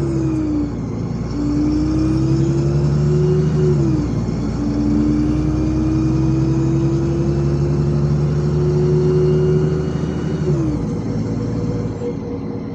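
LiAZ 5292.65 city bus's engine pulling under acceleration, its pitch climbing steadily and dropping at each automatic gearbox upshift: right at the start, about four seconds in, and again near eleven seconds, after which it runs a little quieter.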